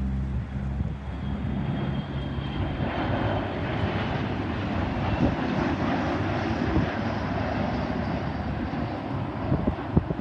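Jet airliner engines: a steady rushing noise that swells about three seconds in, with a faint high whine over it.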